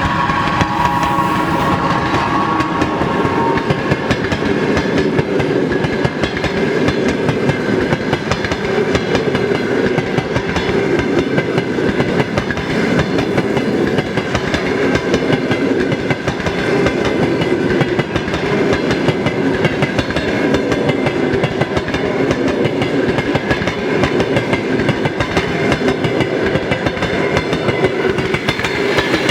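Railway train running past, its wheels clattering steadily over the rail joints. A few held tones, possibly a horn, fade out over the first three seconds.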